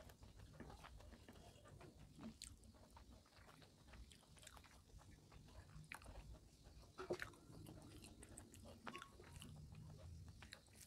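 Faint, close-miked chewing and wet mouth sounds of a person eating rice and dal by hand, with many small clicks and ticks. There is one sharper click about seven seconds in.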